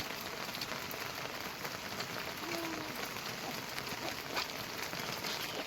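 Heavy rain falling steadily, with many individual drops ticking sharply through the hiss. A person's voice is heard briefly about halfway through.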